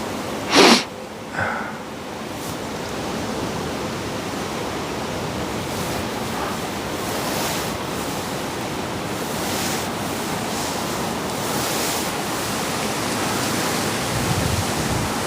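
Steady outdoor rushing noise, wind and water, with a short sharp burst of noise about half a second in and a smaller one about a second later.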